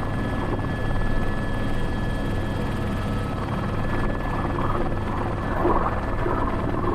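Airbus H125 (AS350 B3) helicopter's turbine and main rotor running steadily, heard from the cockpit: a constant low drone with a faint steady high whine.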